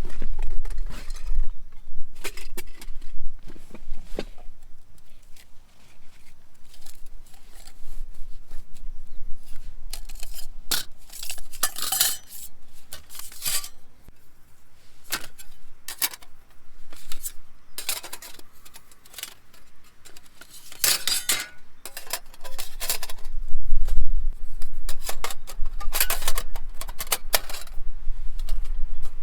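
Light metal objects clinking and clattering against each other as gear is handled, irregular sharp knocks with clusters of louder clatter about a third of the way in and again in the last third.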